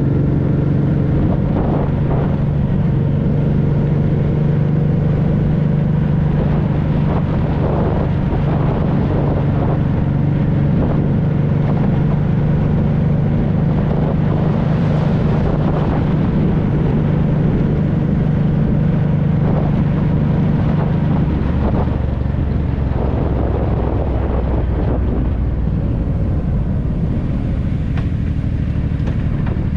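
Honda Deauville 650's V-twin engine running through an aftermarket Dominator exhaust, holding steady revs, then settling to noticeably lower revs about two-thirds of the way through.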